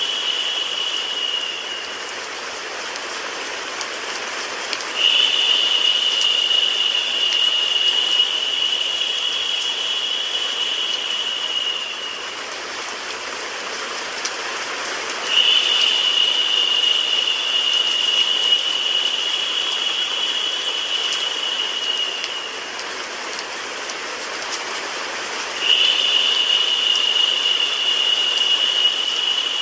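Recorded rain layered with white noise: a dense, even hiss. A narrower, higher-pitched hiss cuts in abruptly and lasts about seven seconds, drops out for about three, and repeats in a regular loop.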